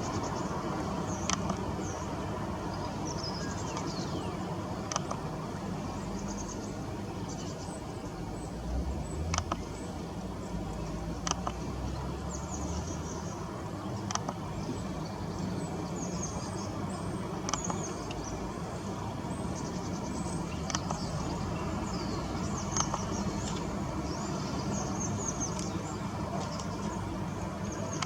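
Steady distant traffic rumble with small birds chirping and twittering high above it, and a sharp click every couple of seconds.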